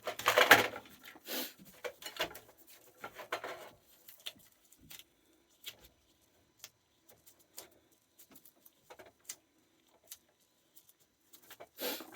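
Small clicks, rustles and taps of wires and tools being handled while hooking up a boiler control, with a few louder scuffs in the first few seconds and another near the end.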